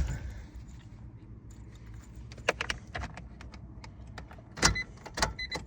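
Car keys jangling and a few sharp clicks as the Honda Integra is about to be started, with an electronic warning chime beginning near the end.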